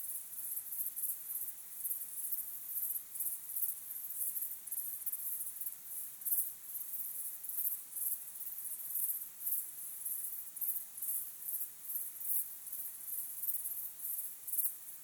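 Crickets chirping in a dense, high-pitched chorus, pulsing several times a second without a break.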